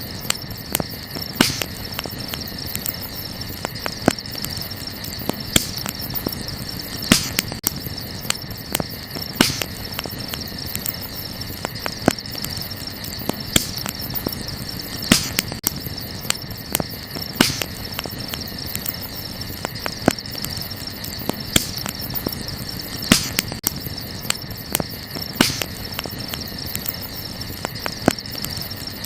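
Wood campfire crackling, with irregular sharp pops several times a second and louder ones every second or two, over a steady high chirring of crickets.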